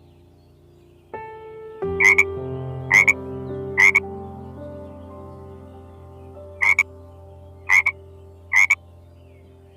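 A frog croaking: six short croaks in two sets of three, about a second apart.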